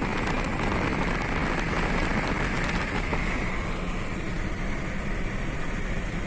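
Steady road and engine noise of a car driving along, an even rushing sound with no changes.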